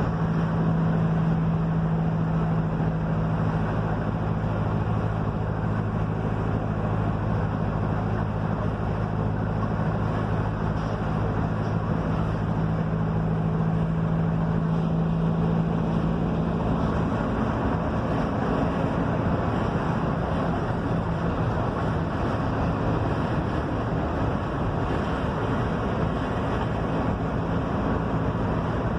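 Mercedes-Benz OF-1721 bus's diesel engine running steadily under way over continuous road and tyre noise. About two-thirds of the way through, the engine note changes pitch.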